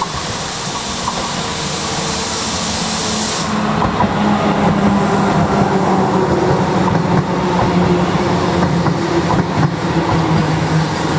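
A locomotive-hauled passenger train running past at close range under the overhead wires: steady rolling noise and motor hum that grows louder about four seconds in as the coaches go by, with wheels clicking over the rails. A high hiss sounds for the first three seconds or so.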